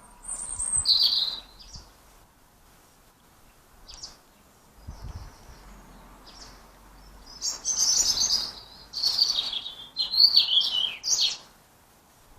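Small birds chirping at a garden feeder: a short run of high chirps about a second in, then a longer, busier run of rapid twittering in the last third.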